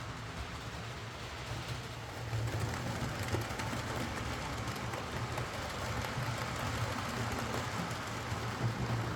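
Hornby OO gauge Britannia Class model steam locomotive running on track: a steady motor hum with wheels rolling over the rails, getting a little louder about two seconds in.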